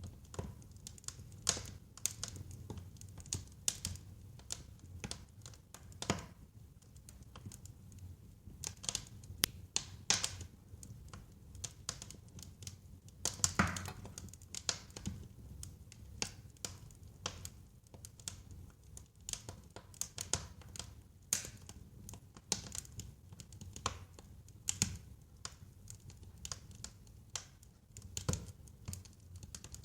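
Wood fire burning in a fireplace, crackling with irregular sharp snaps and pops over a low, steady rush of flame, with one louder pop about halfway through.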